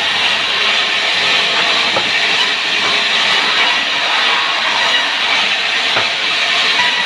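Power wood saw cutting through timber: a loud, steady hissing rasp without pauses, with a few faint clicks.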